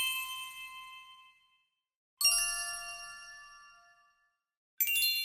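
A small metal bell or chime struck three times, each strike ringing out with several clear tones and fading over about a second and a half. The first is already ringing at the start, the second about two seconds in and slightly lower, and the third near the end.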